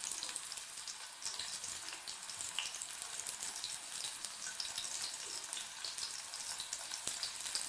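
Cornflour-coated paneer cubes shallow-frying in a little hot oil in a metal pan: a steady sizzle with many small crackles and pops.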